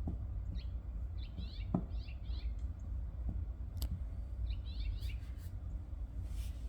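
Small birds chirping, in short runs of quick high notes about every second, over a steady low rumble. Two sharp clicks come about two and four seconds in.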